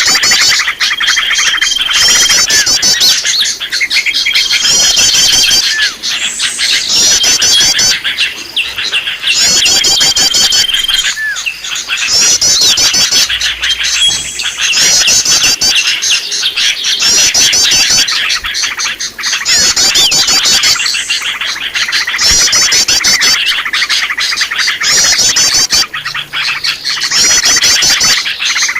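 A busy chorus of small songbirds chirping and trilling, the same fast trill phrases coming back every couple of seconds with an occasional short whistle, over a steady rush of water. It is a looped lure call for drawing wild small birds in.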